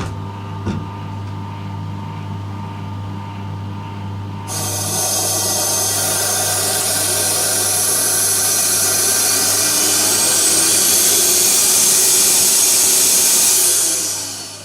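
Turbocharger rotor spinning up with a sudden loud rush of air. A thin high whine rises steadily in pitch over several seconds, then everything dies away near the end.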